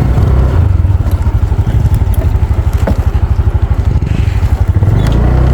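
A small engine running with a fast, even chugging pulse.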